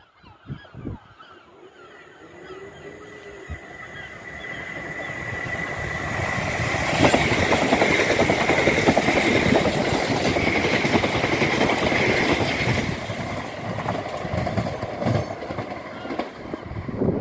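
Two coupled Southern Class 377 Electrostar electric multiple units approaching and running past the platform. The rush of wheels on rail builds to a peak about halfway through and then fades, with a steady high whine over the approach and the pass.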